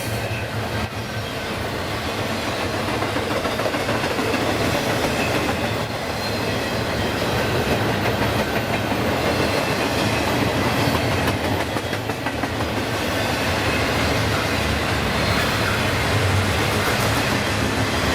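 Freight train cars rolling past, steel wheels running on the rails in a steady, continuous din.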